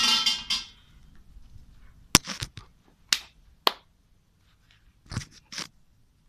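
A metallic ringing of coins fades out in the first second. Then come about six sharp clacks spread unevenly over the next few seconds, the last two close together, as the temple offering is made.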